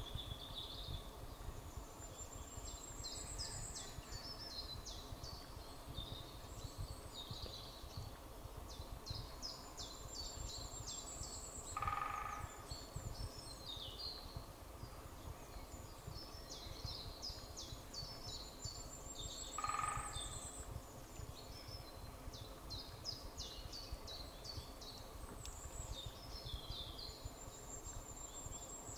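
Woodland songbirds singing, a high trilling phrase that comes back about every eight seconds, over a low steady rumble. Twice, about eight seconds apart, a short louder, lower call stands out.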